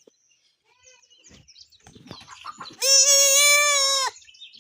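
A goat bleats once, a single long, wavering call of about a second and a half, starting nearly three seconds in; faint knocks and rustles come before it.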